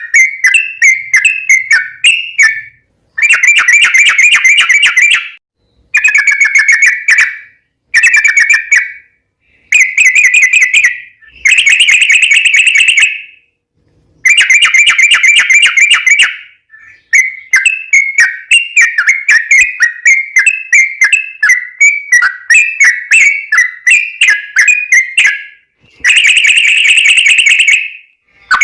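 Yellow-vented bulbul (trucukan) singing: loud, rapid, bubbly warbling phrases, each a second or two long, repeated with short pauses between them, in a long rolling song.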